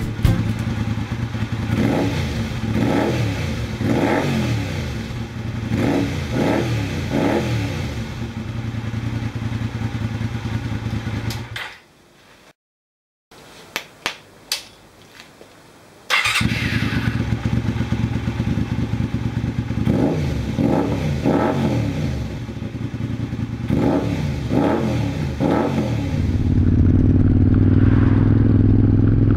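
Honda VTR250's 250 cc V-twin idling and being blipped over and over, the revs rising and falling quickly each time. About halfway through the engine sound drops out for a few seconds with only a few clicks, then the idle and the quick rev blips come back, settling into a steady idle near the end.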